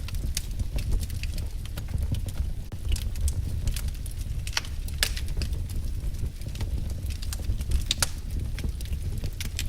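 Wood fire crackling: irregular sharp pops and snaps, several a second, some louder than others, over a steady low rumble of the burning logs.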